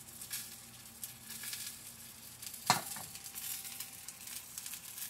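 Food frying in nonstick pans on a stovetop: a steady sizzle with fine crackles, broken by one sharp knock about halfway through.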